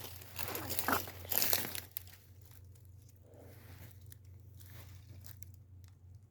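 Close crackly rustling and crunching for about the first two seconds, then it dies away to faint background noise.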